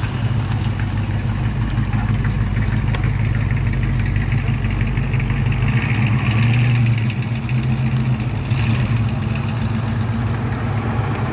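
A car engine running slowly close by, with a steady low drone that swells briefly about six to seven seconds in.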